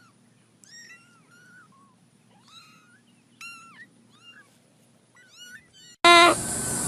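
Kitten mewing over and over, a string of short, high, rising-and-falling cries. About six seconds in, a much louder clip cuts in with a steady hiss and a wavering cry.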